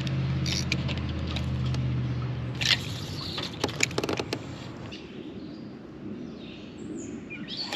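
Fishing gear being handled in a kayak while casting and retrieving: a handful of short sharp clicks and knocks, over a low steady hum that fades out about two and a half seconds in.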